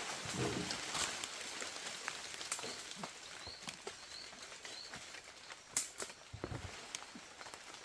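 Scattered light clicks and taps, one sharper than the rest about six seconds in, over a steady outdoor hiss, with a few faint short chirps from a small bird.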